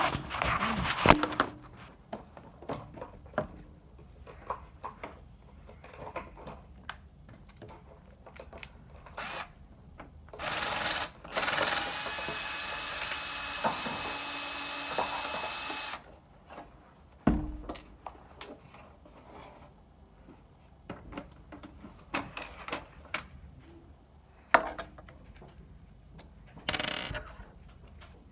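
Small power tool, such as an electric screwdriver, running steadily twice during work on an Epson projector: briefly about ten seconds in, then for about four seconds. Scattered clicks and knocks of parts being handled come before and after.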